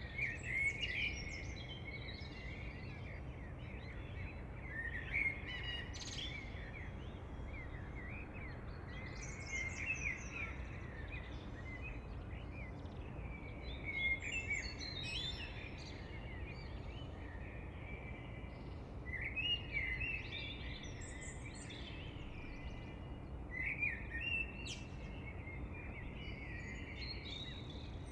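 Songbirds singing in quick, varied chirping phrases that come back every four to five seconds, over a steady low background rumble.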